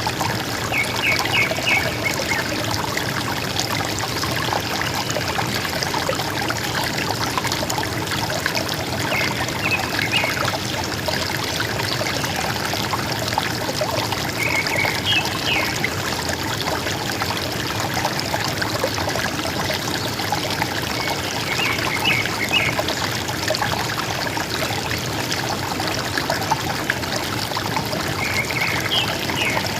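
River water running steadily, with a bird's short call of a few quick notes repeating about every seven seconds, five times in all.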